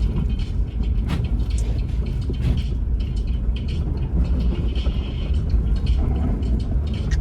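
Car driving on a snowy road, heard from inside the cabin: a steady low rumble of engine and tyres, with a few light clicks.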